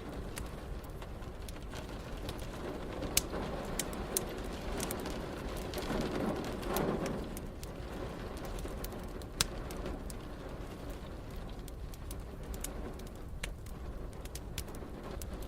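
Wood fire crackling in a fireplace, with frequent small crackles and a couple of sharper pops, over a steady hiss of rain. A brief low rumble swells and fades about six to seven seconds in.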